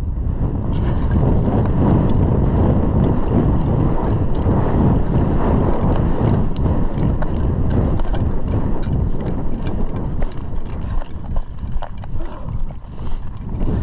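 Wind buffeting the microphone in heavy gusts, a loud low rumble that eases and flutters near the end.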